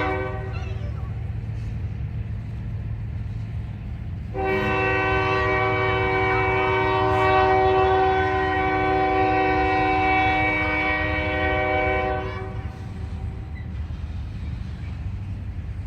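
Train locomotive's air horn sounding one long, steady, multi-note blast of about eight seconds, starting about four seconds in, over the low rumble of the train rolling past as it gathers speed.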